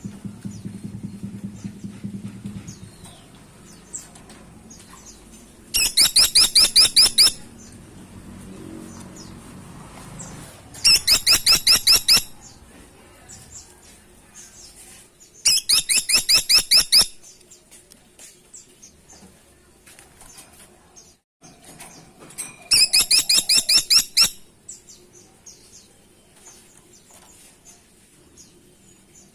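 Caladi tikotok woodpecker calling: four loud bursts of rapid, high, repeated notes, each about a second and a half long, with pauses of several seconds between them.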